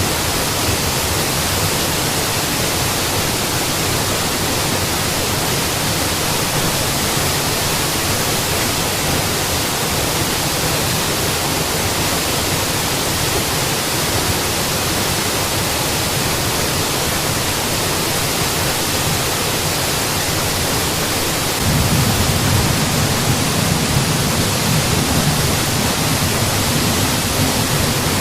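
Mountain waterfall rushing in a steady, dense roar of falling water. About three-quarters of the way through, its low rumble grows noticeably stronger and stays that way.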